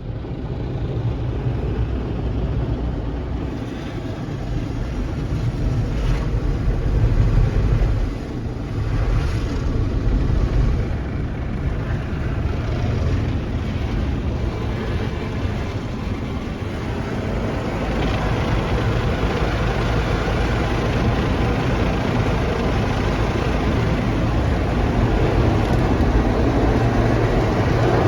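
Car wash heard from inside the car: water spraying and pounding on the body over the wash machinery's steady low rumble, growing a little louder about two-thirds of the way through.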